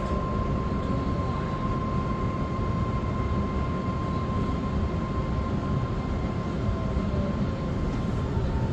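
Metro train running, heard from inside the carriage: a steady rumble of wheels and rails with a thin high tone that fades out near the end, as the train slows into a station.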